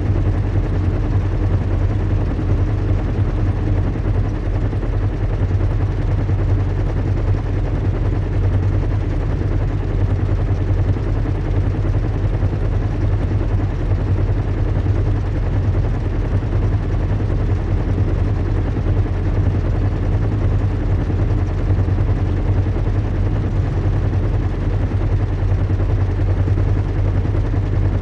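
Recreated airship-in-flight ambience: a steady, deep engine hum with a fast, even flutter and a constant hiss over it.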